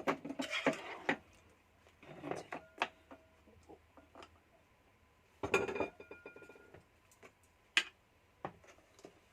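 A spoon and metal cooking pot clinking and knocking as peach jam mixture is scooped into the pot. The loudest is a clatter about five and a half seconds in that rings briefly.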